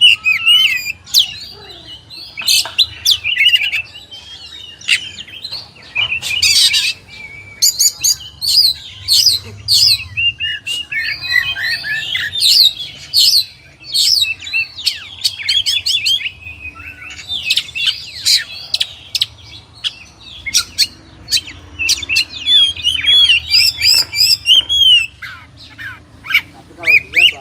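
Oriental magpie-robin (kacer) singing a loud, varied song of rapid whistles, chirps and sharp notes, with only short pauses.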